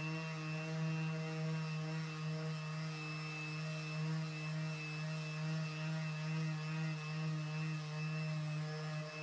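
Electric power tool, a sander or polisher working boat gelcoat, running at a constant speed: a steady motor drone with a thin high whine over it.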